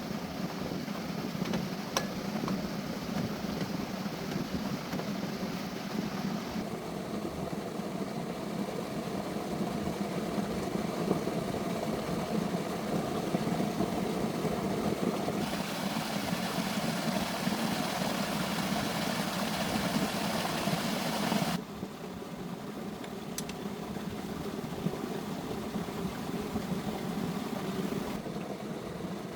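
An engine running steadily at a constant speed, heard in several edited stretches.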